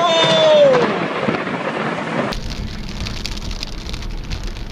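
Thunderstorm: a loud burst of thunder with a tone sliding downward over it for about a second, then an abrupt change to heavy rain hissing over a low, continuous rumble of thunder.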